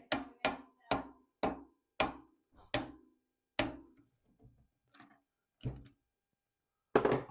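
A series of sharp knocks, about two a second for the first three seconds, then a few fainter ones and a louder, denser cluster near the end.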